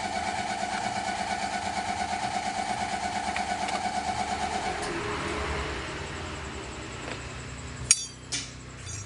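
BMW M52B20 2.0-litre straight-six running with an even pulsing and a steady whine, being tested for a misfire after water was cleared from its spark plug wells. The whine stops about five seconds in, and a few sharp metallic clinks follow near the end.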